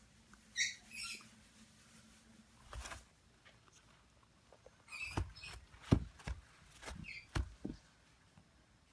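African grey parrot chick giving short, high squeaky peeps several times, mixed with knocks and scuffs as it moves about. The loudest knock comes about six seconds in.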